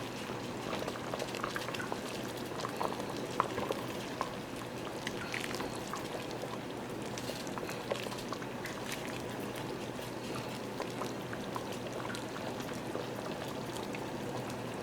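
A pot of red peas soup boiling: steady bubbling with many small, irregular pops.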